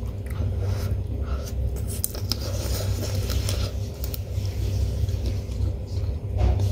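Close-up chewing and biting on adobo-braised chicken feet eaten by hand, with scattered small crunches and clicks over a steady low hum.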